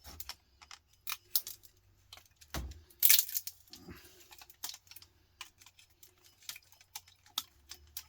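Pliers working components off a desktop power-supply circuit board, with small metal parts clinking: irregular clicks and knocks, the loudest clatter about three seconds in.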